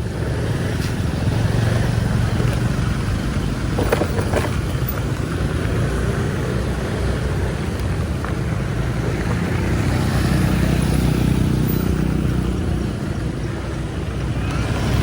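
Motorbike and street traffic running steadily, with one engine passing closer and louder about ten seconds in.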